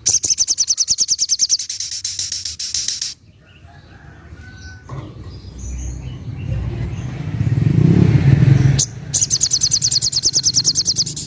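Sogok ontong (little spiderhunter) singing its fast, rattling trill, about ten high notes a second, for about three seconds, then again near the end. Between the two bursts a vehicle passes, a low rumble that swells and is loudest just before the second trill.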